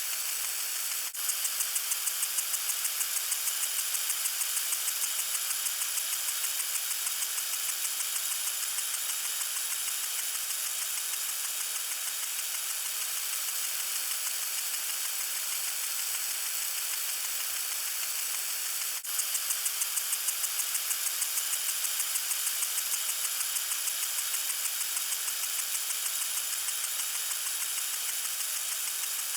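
Water sprinkler spraying: a steady hiss with a rapid rhythmic pulse. The pulse comes in strongly about a second in and again about nineteen seconds in, then eases off each time.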